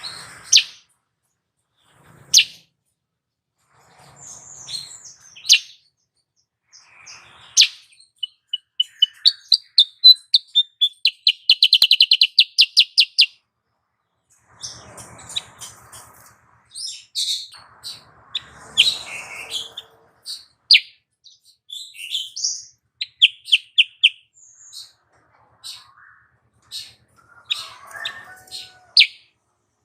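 Female kutilang sutra bulbul calling: scattered sharp chirps and whistled notes, with a fast trilled run about a third of the way in and shorter trills near the end. It is a female's call, played as a lure to rouse males into song.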